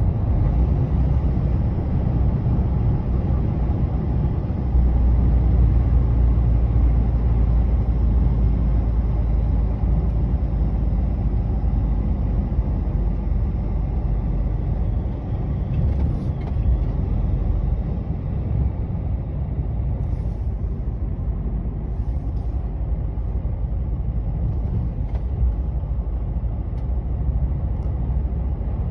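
Heavy truck's engine running with a steady low rumble, joined by a few brief faint ticks past the middle.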